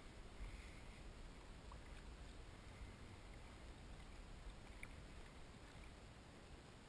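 Near silence from a kayak on the water: a faint steady low rumble with a few faint small ticks and splashes.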